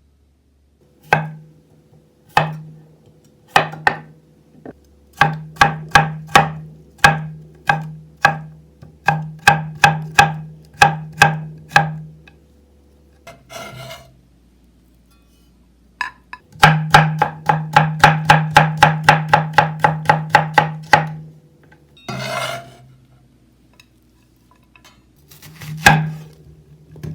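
Knife chopping vegetables on a wooden cutting board. First come single knocks at an uneven pace, then a fast run of about five chops a second near the middle. Short scraping sounds come between the runs, like food being pushed across the board.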